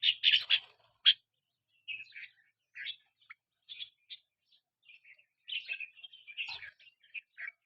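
Bird chirping in short, quick notes in irregular bursts. The chirps are loudest in the first second, sparser in the middle, and come thicker again near the end.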